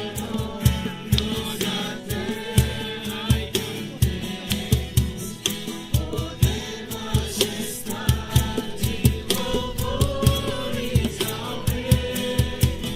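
A group of voices singing a Christian worship song over a steady, regular beat.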